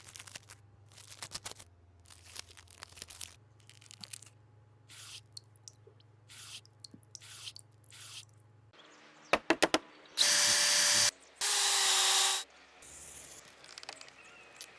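A power tool running in two short bursts of about a second each, after a few sharp clicks; lighter tapping and handling noises come before.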